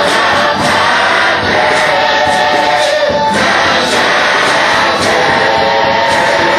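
Gospel worship song with a choir singing over a band, with a steady beat.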